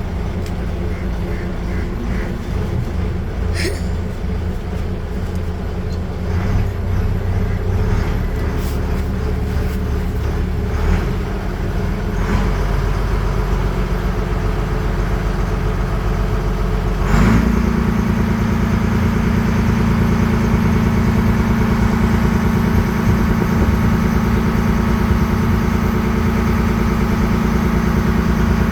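Passenger boat's engine running with a steady low drone, then stepping up about seventeen seconds in to a louder, higher drone as the throttle opens, with a brief knock at the change.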